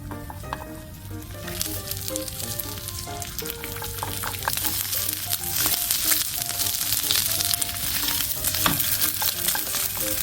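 Food sizzling and crackling in a frying pan. It starts about a second and a half in and gets louder about four seconds in, with occasional clicks of a utensil against the pan. Soft background music plays underneath.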